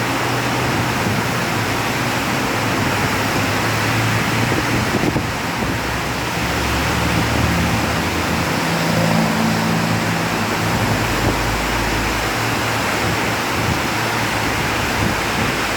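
Very heavy rain pouring down, a steady loud hiss, with a low hum underneath that comes and goes.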